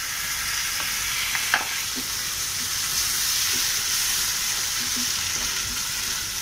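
Spinach purée sizzling in a non-stick pan of hot fried tomato and sweet-corn masala as it is stirred in with a wooden spatula: a steady frying hiss, with one sharp click about one and a half seconds in.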